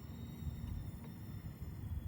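Small electric motor of a micro RC wrecker truck running with a steady high-pitched whine, over a low rumble.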